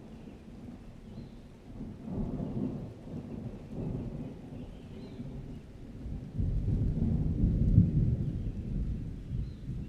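Thunderstorm: rolling thunder over steady light rain, with a louder, longer roll of thunder starting about six seconds in.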